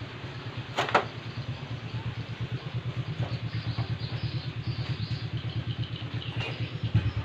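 A small single-cylinder engine running at idle with an even throbbing beat, about ten pulses a second, with a sharp metallic click about a second in and a knock near the end.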